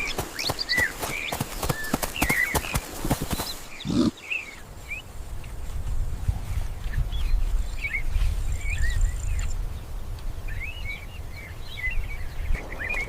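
Small birds chirping in short, scattered calls. For the first four seconds there is a rapid clatter of knocks, after which a low wind-like rumble runs under the chirps.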